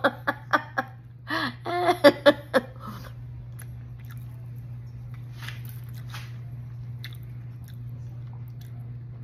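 A person chewing a mouthful of soy-protein barbecue riblet. There is a quick run of sharp mouth clicks at first and a brief hummed voice sound about a second in, then quieter chewing over a steady low hum.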